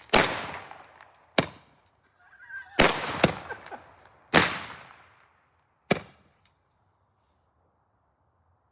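Firecrackers going off one after another: about six sharp bangs at uneven gaps over the first six seconds, most with a fading tail, then they stop.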